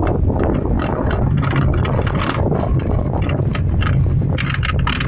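Honda Fit driving over uneven pavement: steady road rumble with many short clunks and knocks from the front end, bunching together near the end. The clunk persists after new lower arm bushings, shock mounts, tie rod ends and stabilizer links; the owner suspects the steering column or a failed bearing.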